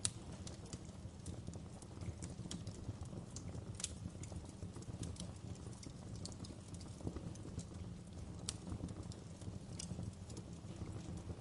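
Wood fire burning in a fireplace: irregular sharp crackles and pops of burning firewood over a low, steady rumble of the flames, with one louder pop right at the start.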